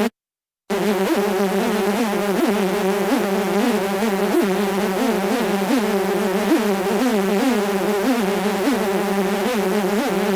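Mosquito buzzing sound effect: a steady drone whose pitch wavers up and down, cutting out for about half a second just after the start.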